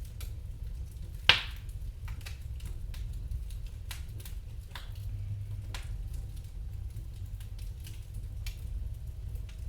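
Wood fire crackling in a fireplace: a steady low rumble with scattered small snaps, and one loud pop a little over a second in.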